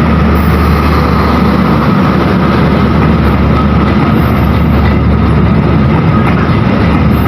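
A train running close by with a loud, steady rumble.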